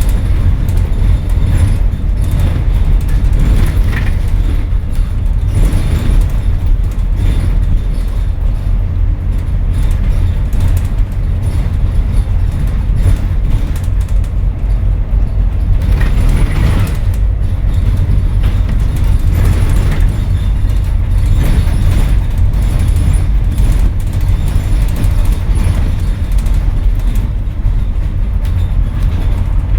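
Scania N230UD double-decker bus driven hard, heard from inside the cabin: a loud, steady low diesel drone with road rumble and body rattle, swelling briefly several times.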